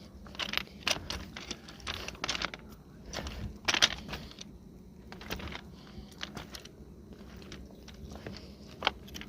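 Footsteps crunching on gravel, an irregular run of steps, busiest in the first half, then sparser, with one sharp crunch near the end.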